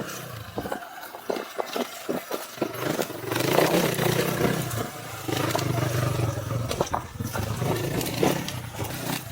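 Sur-ron X electric dirt bike riding over rocky single track: a run of sharp knocks and clatter as the wheels hit rocks, then a steady low rumble with wind noise.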